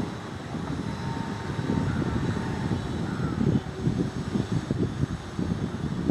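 Distant train approaching: a low, unsteady rumble with wind buffeting the microphone. No horn sounds.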